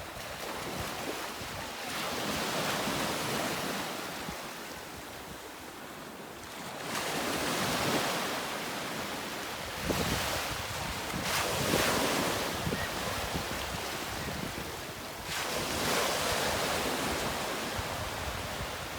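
Sea waves washing in and drawing back, with wind: a rushing noise that swells and eases in several surges a few seconds apart.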